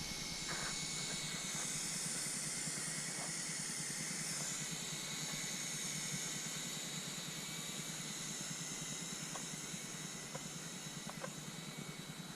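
Syma S107H-E mini RC helicopter's rotors whirring steadily in flight, mixed with a steady hiss of wind.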